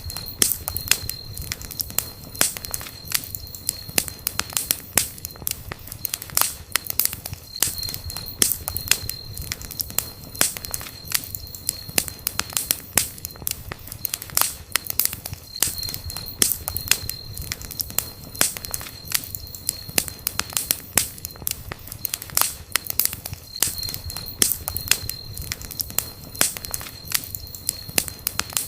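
Campfire crackling, with frequent sharp pops and snaps over a low steady rumble.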